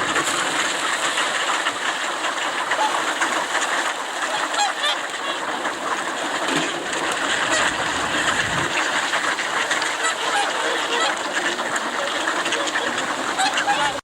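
A large flock of swans calling all at once in a dense, unbroken din of overlapping calls: the excited clamour of wild swans crowding in at feeding time.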